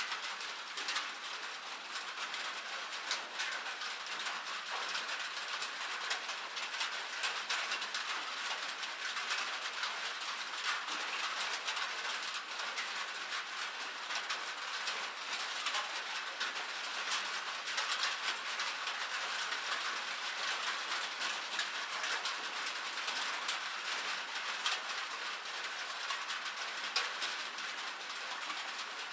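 Rain pattering steadily, a dense stream of small, crisp drop ticks with no low rumble.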